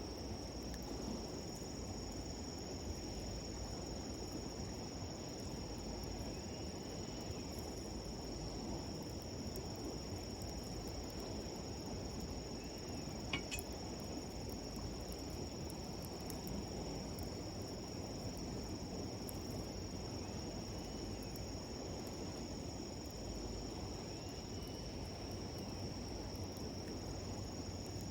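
Insects trill in a steady, high chorus over the low murmur of a flowing stream. A single sharp crackle from the wood fire comes about 13 seconds in.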